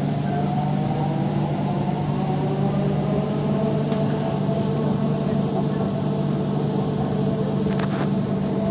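Electric metro train in motion: the traction motors give a whine whose several tones climb slowly in pitch as the train picks up speed, over a steady low hum and rumble in the carriage.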